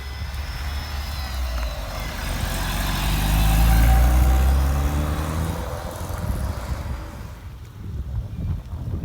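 A car driving past, its engine note swelling to a peak about four seconds in and then dropping away, with wind rumble on the microphone.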